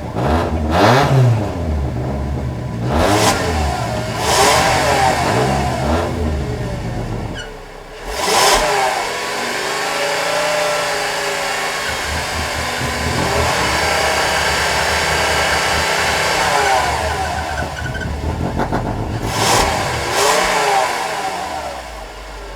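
Volkswagen 2.5-litre inline five-cylinder engine revved in neutral: a few quick blips of the throttle, then the revs held up for several seconds, two more blips, and a drop back to idle near the end.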